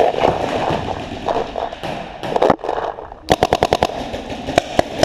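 Paintball markers firing: scattered single shots, then a rapid string of about eight shots a little past the middle.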